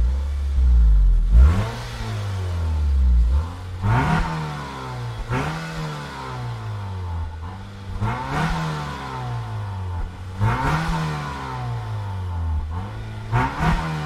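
A car engine starts up and is then revved about six times. Each blip rises quickly in pitch and falls slowly back to idle.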